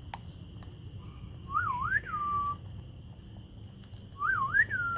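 Two identical whistled phrases about two and a half seconds apart, each a quick rise, dip and rise followed by a held note.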